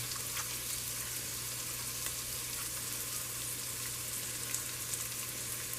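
Sliced onions frying in oil in a pan: a steady sizzle with small scattered crackles.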